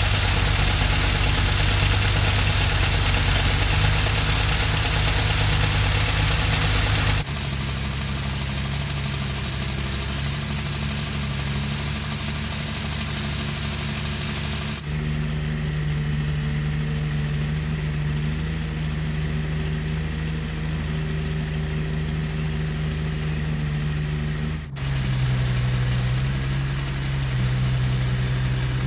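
Heavy diesel engines of construction machinery running steadily at low revs. The sound changes abruptly three times, as if cut between different machines.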